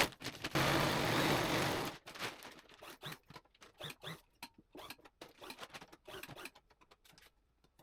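Sewing machine running in a short burst, stitching sail cloth, followed by faint irregular clicks and rustling of the fabric.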